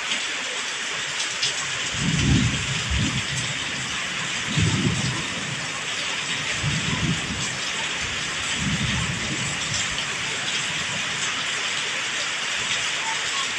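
Steady rain pouring down in a thunderstorm, with four low rumbles of thunder coming about two seconds apart in the first ten seconds.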